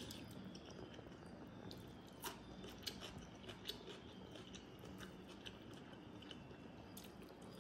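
Quiet close-up eating sounds: chewing with wet mouth clicks scattered through, and a hand squeezing water-soaked rice near the start.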